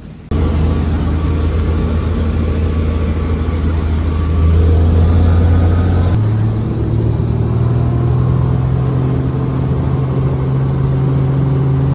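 Helicopter engine and rotor noise, loud and steady, starting and stopping abruptly. Its low drone steps up in pitch about halfway through.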